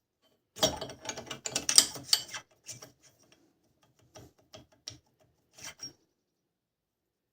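Metal clicking and rattling as a nut is unscrewed from the hydraulic cylinder of a 20-ton shop press. The clicks come thick and fast for the first couple of seconds, then thin out to a few separate ticks that stop about six seconds in.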